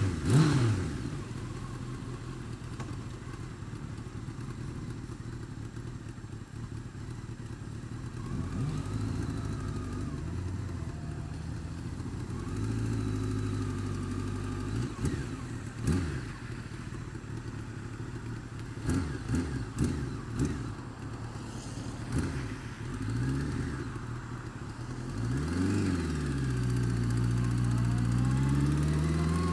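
Honda Fireblade's inline-four engine idling and blipped several times, the revs rising and falling quickly, then held at a higher speed near the end.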